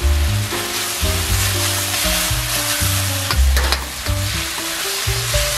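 Beef and chopped aromatics sizzling in a hot carbon-steel wok while a metal spatula stirs and scrapes them around the pan. Background music with a plucked bass line plays under the sizzle.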